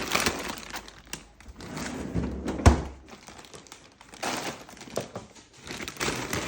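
Dry dog kibble being scooped and poured into a dog bowl, with rustling and light clatter and a single sharp thunk a little under three seconds in.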